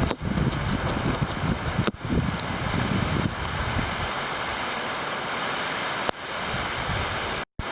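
Heavy rain pouring down in sheets, a steady loud hiss, with gusts of wind buffeting the microphone for the first three seconds or so. The sound cuts out for a split second near the end.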